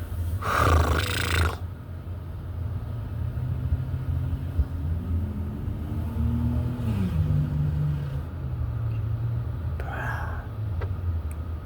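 Steady low rumble heard from inside a car cabin going through an automatic car wash. A short burst of hissing noise comes about half a second in, and a low hum rises in pitch and falls back around the middle.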